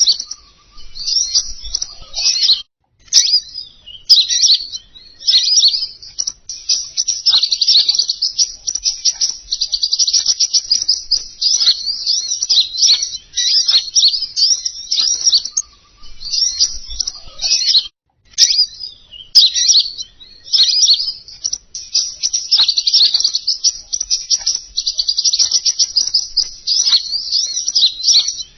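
Recorded lure song of a small songbird, the King Konin: rapid, high chittering trills in long, almost unbroken runs, with brief breaks and sharp clicks around 3 s in and again around 18 s in.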